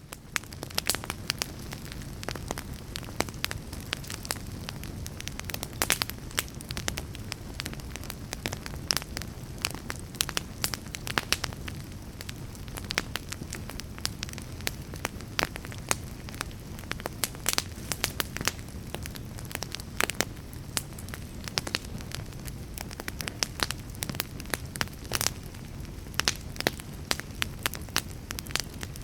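Fire crackling: a dense run of sharp, irregular pops and snaps over a steady low rumble of burning.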